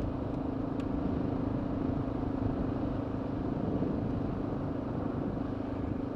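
Honda XR650L's single-cylinder engine running steadily while the motorcycle is ridden, under a steady rush of noise.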